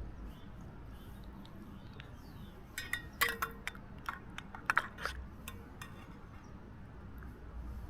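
A cluster of light clinks and clicks, about three to five seconds in, as of small hard objects being handled, over a low steady rumble.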